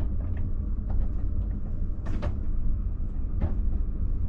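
Steady low rumble of a Ouigo TGV high-speed train running, heard from inside the passenger car, with two brief higher sounds about two and three and a half seconds in.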